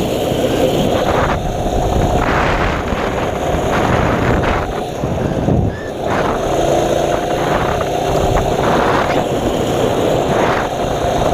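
Mini bike's small engine running steadily while riding, with a brief dip in level about halfway through before it picks up again.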